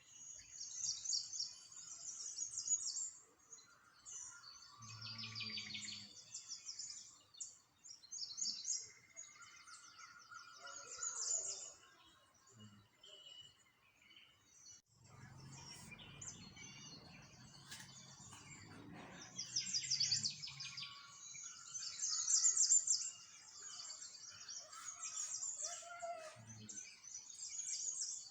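Small songbirds chirping and singing, many quick trills and chirps overlapping throughout. A low rumble comes in about halfway through and lasts several seconds under the birdsong.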